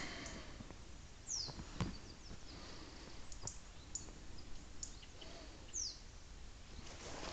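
Small birds calling from the woods: short high chirps and two quick falling whistles. A single sharp knock comes about two seconds in.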